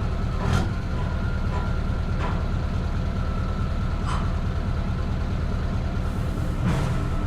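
Scania V8 truck engine with open exhaust pipes running with a steady deep rumble. Short sharp sounds break in about half a second, two, four and six and a half seconds in.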